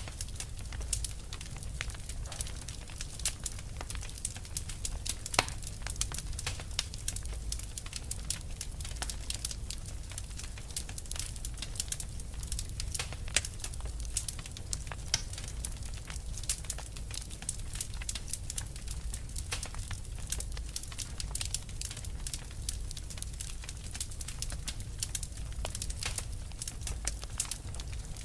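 Wood fire burning, with dense irregular crackles and sharp pops over a steady low rumble of the flames.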